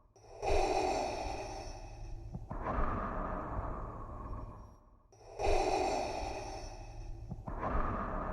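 Darth Vader's mechanical respirator breathing, a hissing, masked breath made by breathing through a scuba regulator. Two full breath cycles, each a draw of breath followed by a release of about 2 s each, with a brief pause before each new cycle.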